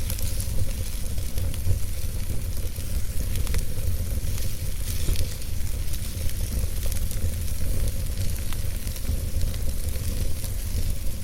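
Wood fire burning in a fireplace: a steady low rumble of flames under a constant hiss, with many small sharp crackles and pops scattered throughout.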